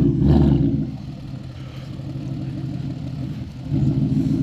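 Ford Mustang's loud exhaust rumbling at idle, rising twice with blips of the throttle: once at the start and again near the end.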